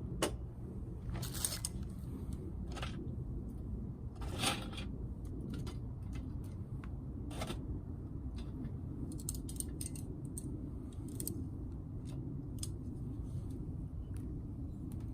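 Small twigs crackling and snapping, sharp irregular clicks with a few longer cracks, over a steady low rumble.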